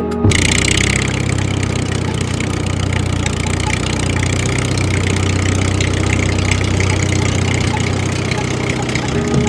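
Small motor of a DIY mini tractor running steadily with an even mechanical whir; it cuts in abruptly just after the start.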